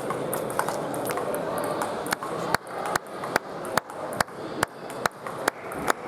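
Table tennis ball in a rally: a regular run of about ten sharp pings of the ball on bats and table, a little over two a second, starting about two seconds in. Under it, a steady murmur of a sports hall with scattered fainter pings.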